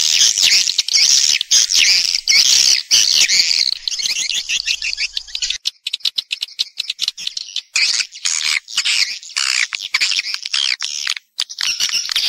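Swiftlets twittering and chattering in a dense, high-pitched chorus. A few seconds in, the calls thin out to a run of rapid dry clicks, and the chattering comes back about eight seconds in. It is a swiftlet-house lure recording of call and roosting sounds.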